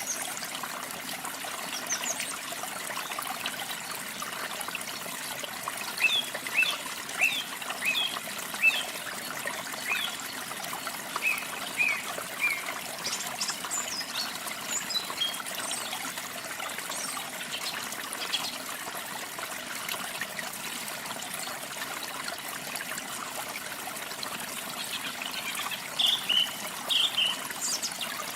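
Steady rush of water from a small waterfall or stream, with birds singing short chirping phrases over it, in a run of chirps from about six seconds in and again near the end.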